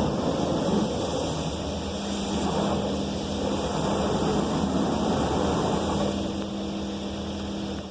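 High-pressure rinse water from a PDQ Laserwash 360 Plus touchless car wash spraying over a car: a loud, steady rush of water with a low hum joining in after a second or two. It cuts off suddenly at the end as the rinse stage finishes.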